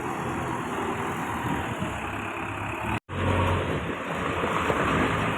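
Diesel engine of heavy machinery running steadily, broken by a brief cut to silence about three seconds in, after which it returns a little louder with a stronger low hum.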